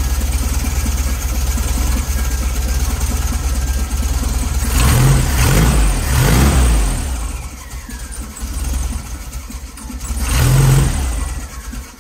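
1970 VW Beetle's air-cooled flat-four engine idling, freshly reinstalled, and revved up briefly three times: twice about five to seven seconds in and once near the end, then dropping back and falling quiet at the very end.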